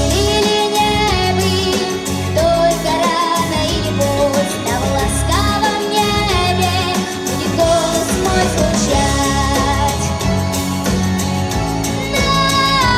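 Pop song with a solo voice singing a melody over a full backing track with a steady bass line.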